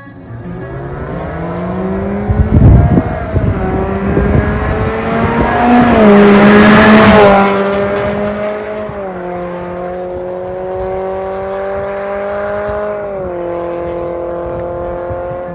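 Toyota Corolla Sport's M20A-FKS 2.0-litre four-cylinder running through an MS-R valved cat-back exhaust. The note climbs as the car accelerates, with a few sharp crackles a couple of seconds in. It is loudest around six to seven seconds in, then drops in pitch and settles into a steady drone.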